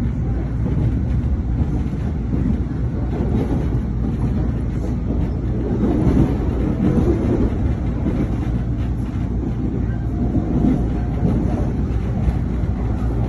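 Passenger train running along the line, heard from inside the carriage: a steady low rumble of wheels on the rails.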